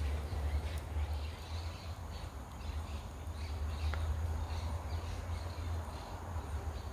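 Faint, scattered bird calls over a steady low rumble, with a few light clicks.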